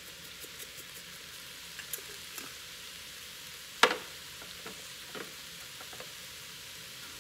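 Leeks sizzling in olive oil in an enameled cast-iron pot, a steady frying hiss as they soften. A few light taps and one sharp clink a little under four seconds in.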